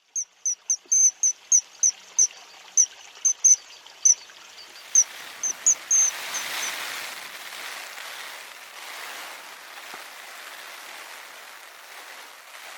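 A small bird calling: a run of short, high, single-note chirps, about three a second, that stops about six seconds in. A steady hiss of rain comes up under the chirps about five seconds in and carries on.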